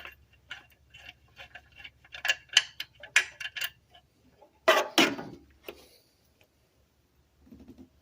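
Hand ratchet clicking in a quick, uneven run as an exhaust bolt is backed out, followed by two louder clunks about five seconds in.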